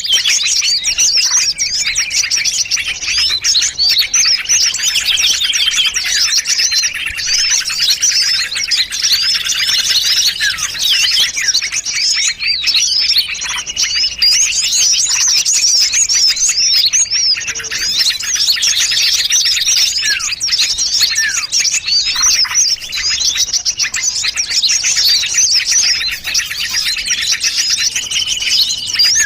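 A dense chorus of many small songbirds chirping and trilling at once, quick high calls overlapping without a break: a mixed bird-luring call recording of several small-bird species played together.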